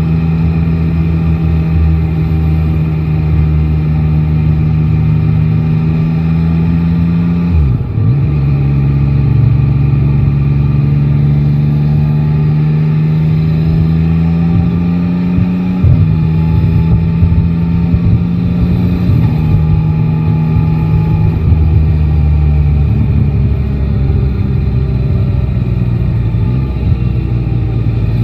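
Yamaha Tracer 9 GT's 890 cc three-cylinder engine running under way, its pitch climbing slowly between gear changes, with sharp drops in pitch about a quarter of the way in and again about halfway.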